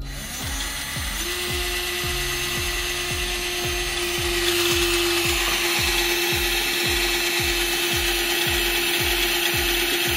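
Power drill running continuously under load, boring into something hard, its motor holding one steady tone. A steady low beat of background music runs underneath.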